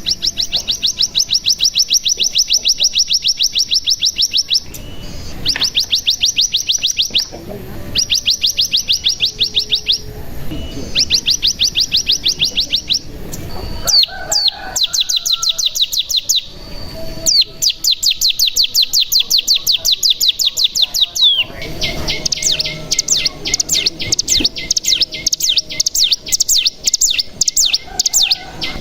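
Ciblek gunung singing a series of long, very fast trills (the 'bren'), each lasting a few seconds with short breaks between. Near the middle there are a few brief single chirps before the trilling resumes and runs on longest near the end.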